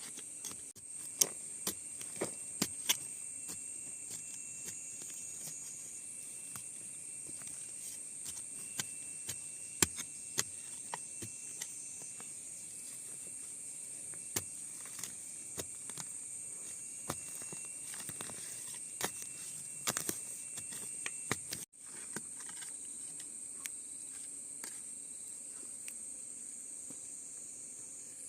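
Steady high-pitched insect chirring, with many irregular sharp clicks and knocks over it; a fainter steady tone stops about three-quarters of the way through.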